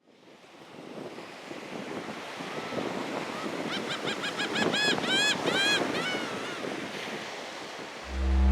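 A bird calling in a quick series of short arched notes, rising then falling in pitch, over a steady rush of surf and wind. Near the end a loud low music tone comes in.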